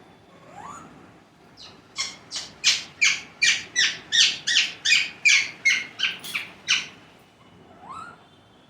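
A pet parrot squawking in a fast run of about fifteen loud calls, roughly three a second, with a softer single rising call before the run and another after it.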